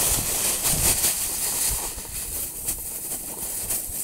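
Brome grass seed poured into a galvanized metal tub of seed mix, a soft rustling hiss with faint small ticks.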